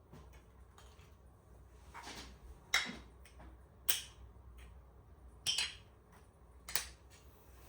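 Sharp clicks and light taps of camera gear being handled and cleaned, about five spread out with pauses between them, over a faint low hum.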